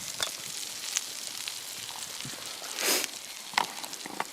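Burgers sizzling in a pan over a campfire: a steady hiss with scattered pops and crackles, and a short louder hiss about three seconds in.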